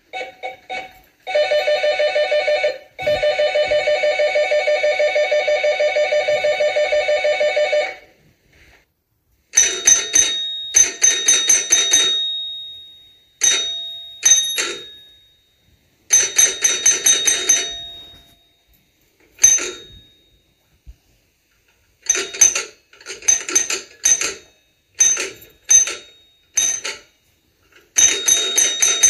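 Electric doorbells ringing: a continuous rapid ringing for the first several seconds, broken twice briefly, then after a short pause a series of shorter rings, each fading out, with a bright high tone.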